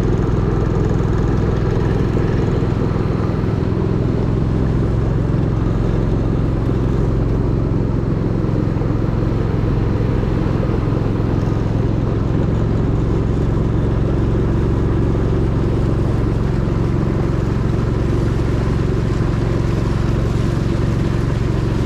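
Longtail boat engine running steadily at a constant cruising speed, its low drone unchanged throughout.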